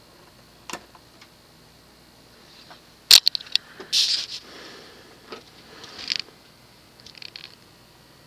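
Scattered clicks and brief scraping, rustling handling noises. The loudest is a sharp cluster of clicks about three seconds in.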